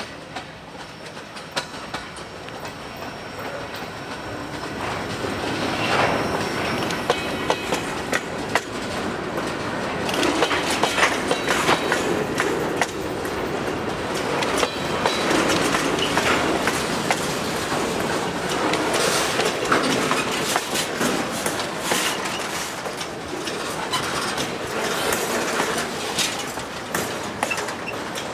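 Freight train rolling past, its wheels clacking over the rail joints; it grows louder over the first several seconds, then stays loud.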